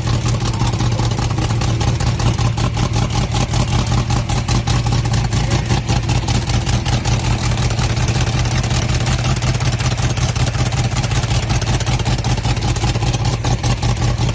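Shelby Cobra 427's V8 engine running steadily with an even, low rumble and no rise or fall in revs.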